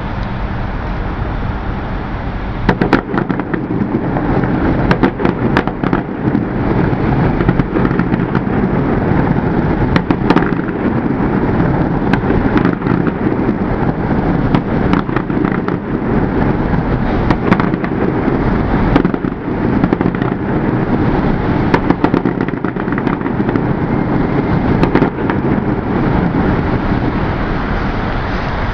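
Aerial fireworks going off in quick succession: a steady rumble of bursts with many sharp bangs and cracks on top, picking up about three seconds in.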